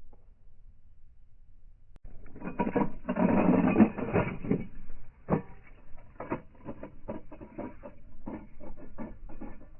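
Slowed-down sound of 1/64-scale diecast toy cars crashing: a dense clatter of impacts starting about two seconds in, then a string of separate clicks and knocks. The sound is dull, with no treble.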